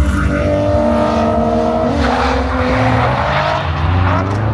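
A car drifting: the engine held at high revs, its pitch wavering, with a rush of tyre noise from about two seconds in as the revs fall away.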